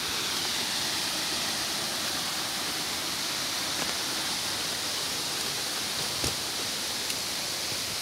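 Steady, even rushing hiss, brightest in the upper range, with two faint ticks late on.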